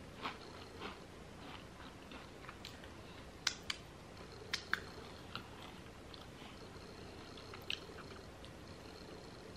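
A person chewing food quietly with the mouth closed, with soft wet mouth clicks and smacks, sharper a few times in the middle and once near the end.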